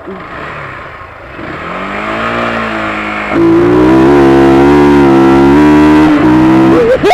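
Motorcycle engine accelerating hard in a standing-start race. It revs up, then gets much louder about three seconds in and holds a high, steady note for about three seconds before dropping off near the end.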